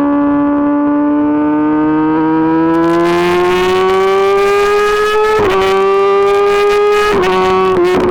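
Kawasaki ZX-10RR's inline-four engine through an Arrow Pro-Race exhaust, ridden under load. The revs climb steadily for about five seconds, then come quick gear changes, each a brief break in the note with a small drop in pitch.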